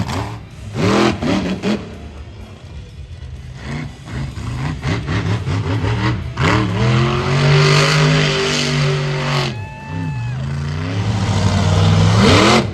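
Monster truck engine revving hard, rising and falling in pitch, holding one long high rev for about three seconds before dropping off, with a few sharp knocks near the start.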